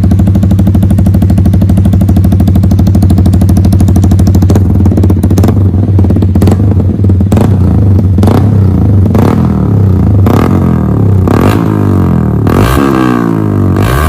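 Yamaha R15 V3's single-cylinder engine running through an aftermarket Akrapovic exhaust, first idling with a steady note. From about four seconds in it turns uneven, broken by sharp cracks, and near the end the pitch rises and falls repeatedly as the throttle is blipped.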